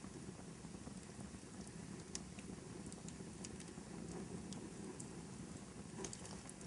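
Fireplace fire crackling: a steady low rumble of burning logs with scattered sharp pops and snaps, several coming close together near the end.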